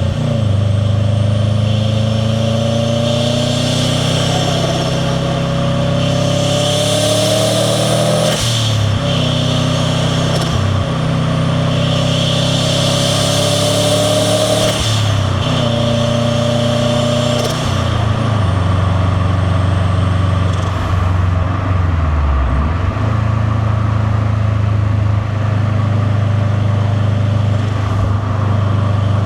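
Subaru WRX STi's turbocharged boxer engine pulling hard through three gears. Its pitch rises with the revs and drops at each gear change, about 8 and 15 seconds in, with a rising turbo and intake hiss on each pull. After a third, shorter pull it settles into steady cruising.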